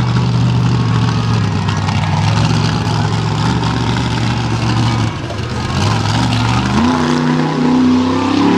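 Monster truck engine running hard at steady revs, dipping briefly about five seconds in, then revving higher in steps near the end.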